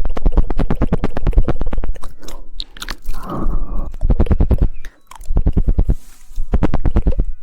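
Rapid 'woodpecker' tongue clicking into a close microphone, a dozen or more sharp clicks a second in fast runs. The runs break off briefly about two, five and six and a half seconds in, with a wetter smacking mouth sound about three seconds in.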